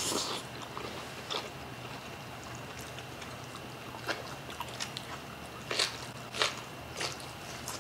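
People chewing and biting food close to the microphone: steamed fish and crisp green vegetables, with wet mouth smacks and a few sharp crunchy bites scattered through, several close together near the end.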